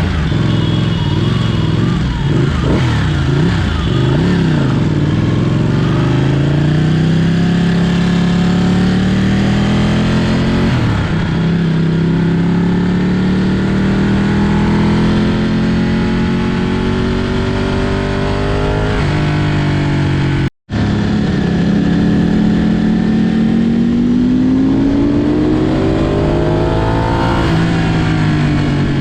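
Ducati Panigale superbike engine under way, its pitch climbing under throttle and dropping sharply at gear changes about ten seconds in, near two-thirds of the way through and just before the end, with rushing wind noise. The sound cuts out for a split second about two-thirds of the way through.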